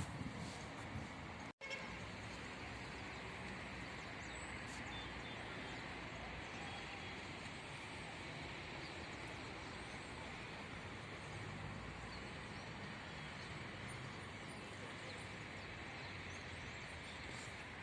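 Steady outdoor ambient noise, an even hiss-like background with no distinct events, broken by a brief dropout about one and a half seconds in.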